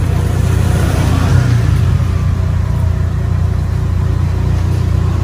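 A car engine idling with a steady low rumble, which swells briefly about a second in.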